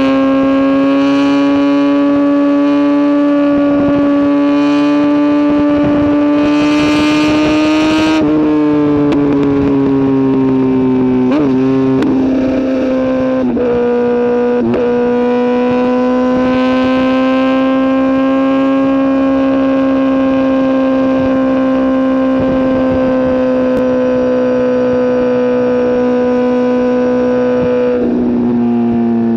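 Sport motorcycle engine running at steady high revs at motorway speed, with wind noise. The pitch drops about eight seconds in, dips briefly a few times between about 11 and 15 seconds, as with gear changes or rolling off the throttle, and drops again near the end.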